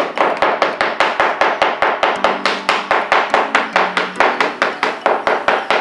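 Rapid, even tapping, about five strikes a second, over low held tones that step to a new pitch every half second or so.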